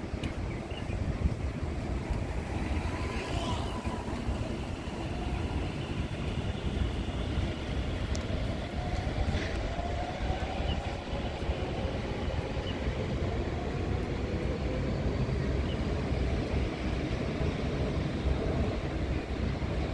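Taoyuan Airport MRT train running with a steady low rumble, and a faint whine that rises and then falls in pitch through the middle.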